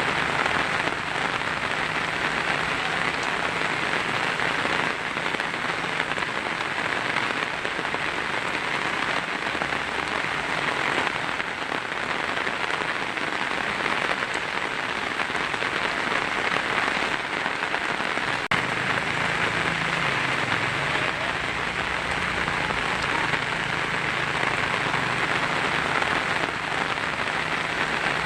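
Heavy rain drumming steadily on a tin roof, an even, unbroken patter.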